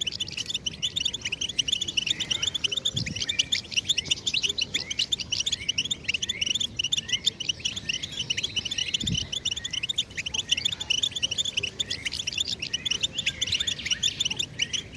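European goldfinch singing: a fast, unbroken twittering song of rapid high chirps and short trills.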